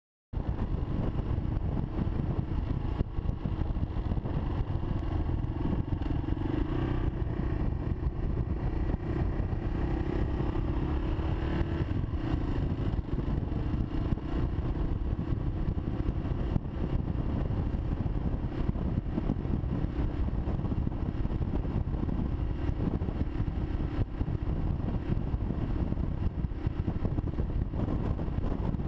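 Kawasaki KLR650's single-cylinder four-stroke engine running steadily as the bike rides along, picked up by a GoPro Hero 3 mounted on the rider.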